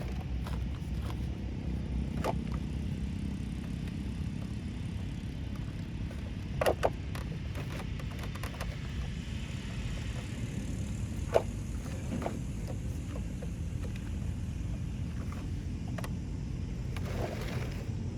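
Steady low rumble with a few sharp knocks and clicks, the loudest a double knock about six and a half seconds in and a single sharp one about eleven seconds in.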